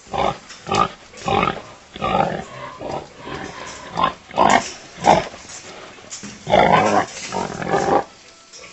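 A farm animal making a series of short, harsh calls, a dozen or so in quick succession, with a longer, louder run of calls about six and a half seconds in.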